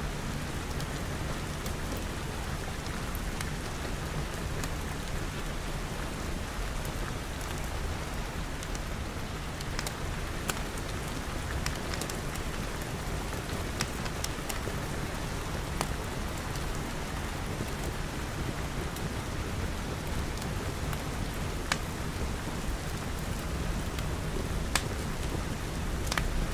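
Steady rain in an even wash with a low rumble beneath it. A few sharp pops from a crackling wood fire stand out here and there, the loudest near the end.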